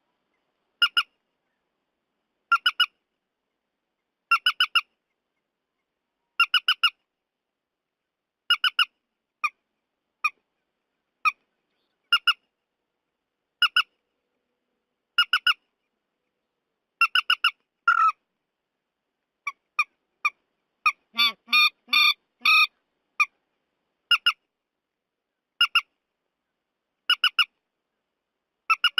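Recorded calls of the trích ré bird: short notes in pairs or triples, repeated every one and a half to two seconds with dead silence between, and a quicker run of many notes about 21 seconds in.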